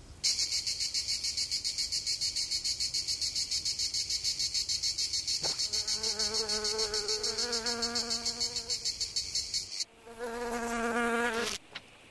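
Cartoon fly's wings buzzing: a loud, high, fast-pulsing buzz that stops abruptly about 10 seconds in. From about halfway a lower, warbling pitched hum runs along with it. A shorter burst of buzz and hum follows for about a second and a half.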